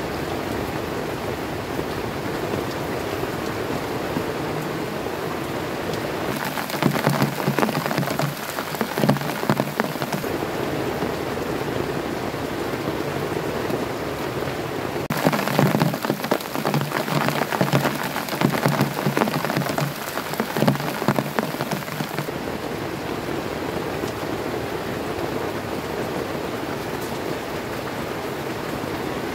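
Heavy rain falling on a tent, heard from inside: a steady hiss of rain, with two stretches of louder, denser patter, one about a quarter of the way in and a longer one through the middle.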